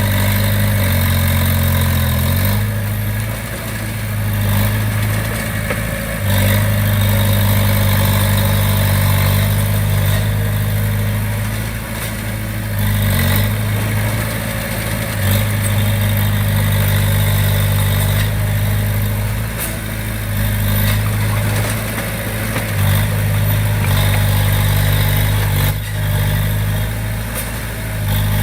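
Komatsu D20P bulldozer's diesel engine running steadily, its pitch shifting a few times as the load changes, with a few knocks.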